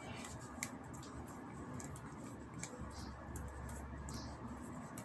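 Faint handling sounds of hands kneading a lump of biscuit (cold-porcelain) modelling clay, with a few light scattered ticks.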